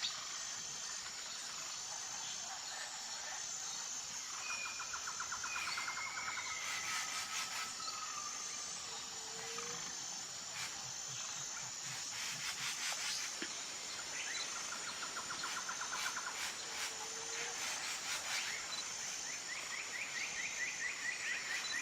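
Forest ambience: a steady, high insect drone pulsing evenly, with birds chirping and giving short rapid trills now and then.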